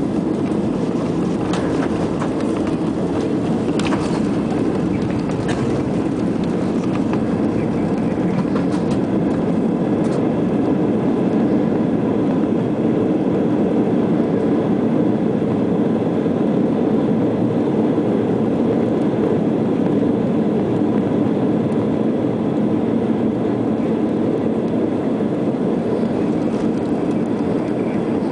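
Steady rumble heard inside the cabin of an Airbus A320 airliner during landing, with a few faint knocks in the first ten seconds.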